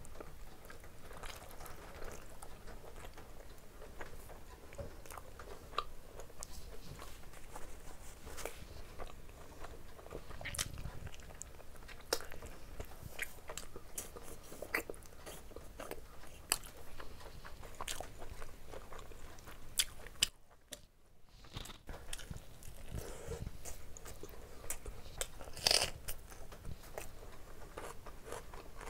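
A person chewing and biting a mouthful of chicken curry and rice eaten by hand, with many short wet mouth clicks and smacks; a brief lull comes about three-quarters of the way through.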